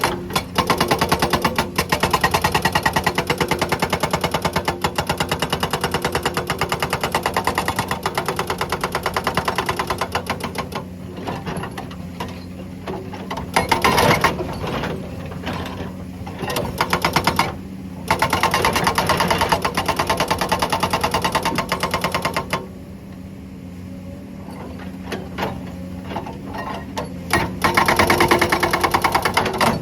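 Hydraulic rock breaker on a Komatsu excavator hammering rock in rapid, even strokes. It comes in several bursts, the first about ten seconds long, with pauses in which only the excavator's engine keeps running steadily.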